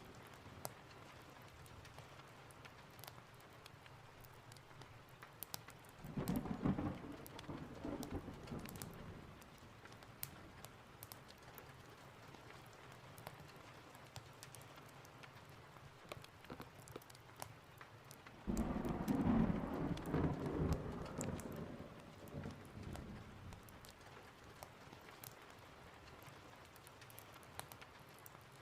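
Steady rain with two rolls of thunder: one about six seconds in and a louder one at about eighteen seconds, each starting suddenly and rumbling away over a few seconds. Scattered light ticks run throughout.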